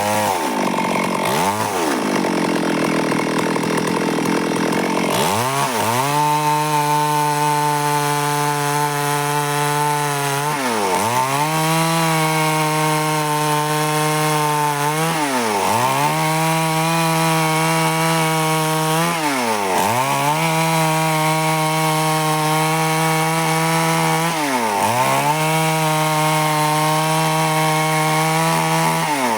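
Stihl chainsaw running near full throttle as it rips boards lengthwise from a log, its pitch dipping briefly and climbing back about every four to five seconds. Harsher cutting noise for the first few seconds.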